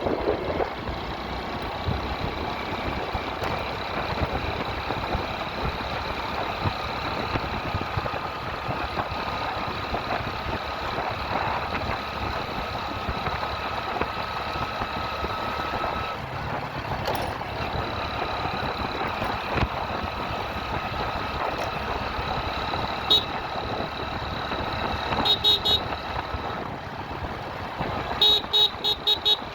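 Steady road noise while riding through traffic. Vehicle horns honk a few times, with a rapid string of short horn beeps about three seconds before the end.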